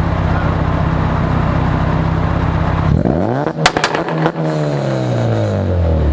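Honda Civic's B20 four-cylinder engine idling steadily, then about three seconds in revving hard onto the Bee R rev limiter. The limiter sets off a quick series of loud pops and bangs from the exhaust, and the revs fall back to idle.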